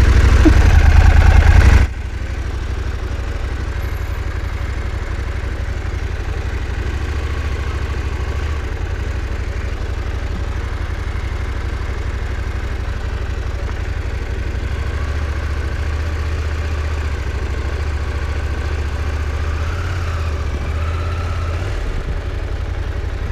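KTM 790 Adventure's parallel-twin engine running steadily at low speed. It is much louder for the first two seconds, then drops off abruptly.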